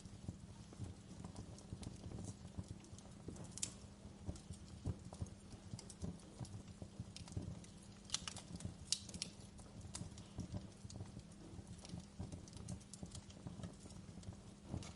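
Wood fire crackling in a fireplace: a low steady rumble of flames under irregular small pops and snaps, with a few sharper cracks about four seconds in and again around eight to nine seconds in.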